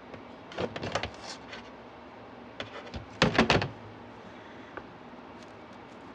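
Hands handling craft materials: two short bursts of rustling and clicking, about a second in and again a little after three seconds.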